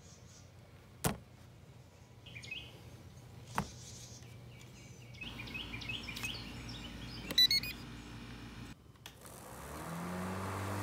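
Birds chirping outdoors, with two sharp clicks about one and three and a half seconds in and a rapid stuttering chirp series a little after seven seconds. Near the end a low steady hum rises in.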